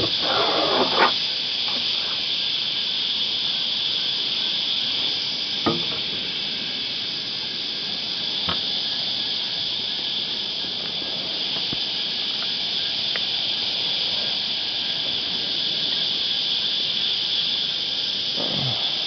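Cicadas droning in a steady, high chorus, with a few brief knocks and a short splashy burst about a second in.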